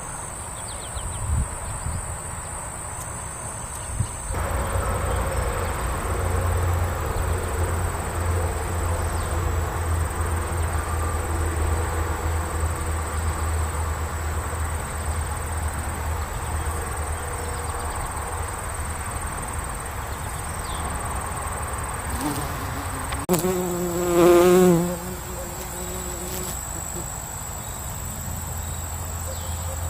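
Insects buzzing close by over a steady high-pitched drone of crickets. About three-quarters of the way through, a short pitched call with a wavering pitch rises above them.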